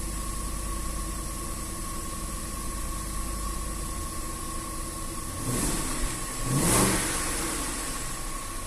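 Range Rover 4.2 supercharged V8 idling evenly, with two brief revs about five and a half and seven seconds in, the second louder. Its misfires have just been cured: no misfire and no supercharger noise can be heard.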